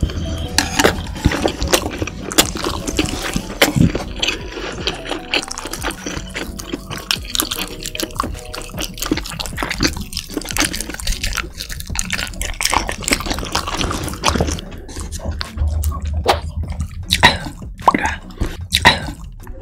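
Close-miked eating sounds: wet chewing and smacking with many quick, irregular sticky clicks.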